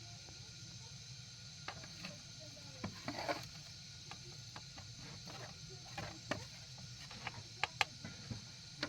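Irregular light taps, clicks and knocks, a dozen or so scattered and unevenly spaced, over a steady low hum and hiss.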